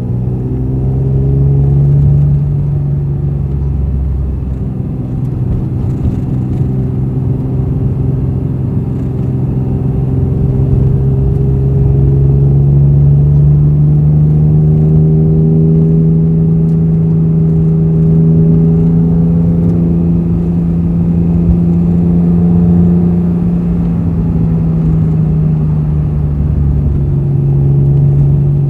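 Honda NSX NA1 V6 with an aftermarket all-titanium exhaust, cruising at steady revs. The engine note drifts slowly higher through the middle, dips briefly near the end and picks up again.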